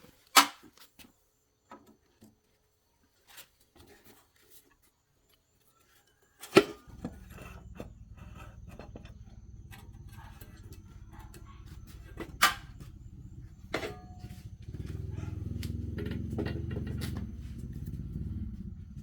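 Sharp knocks, then a low steady mechanical drone that starts about six seconds in, gets louder near the end and stops abruptly.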